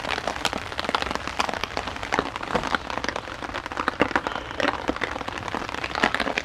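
Heavy rain pattering on a tarp overhead, a dense run of sharp drop hits.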